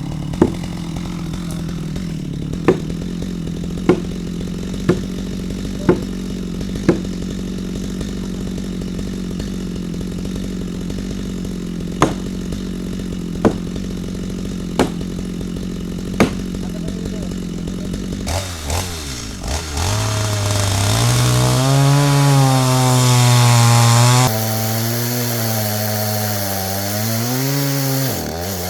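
Stihl MS 250 gas chainsaw running steadily, with sharp knocks roughly once a second. About two-thirds of the way in it is throttled up and cuts into wood, its pitch wavering as the chain loads and frees in the cut.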